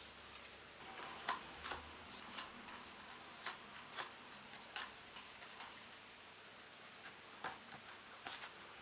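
Soft, irregular taps and clicks of small objects being handled during desk study, spaced unevenly, about nine in all.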